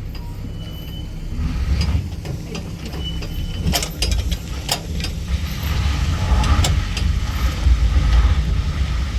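Vehicle running with a steady low rumble, with a few sharp clicks and rattles about halfway through.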